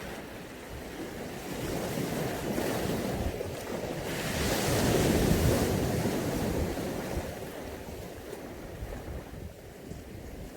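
Mediterranean sea waves washing ashore: a steady rush of surf that swells to its loudest about halfway through as a wave breaks, then ebbs away.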